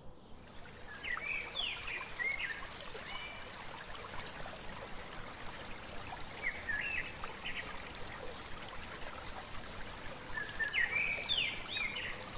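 A bird singing a short chirping phrase three times over a steady rushing noise like running water.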